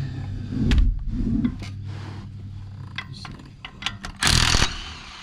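Brake caliper bolt being run out with a small air-powered tool: sharp metal clicks and clinks throughout, and a short, loud burst of the air tool a little past four seconds in. A steady low hum fades out over the first half.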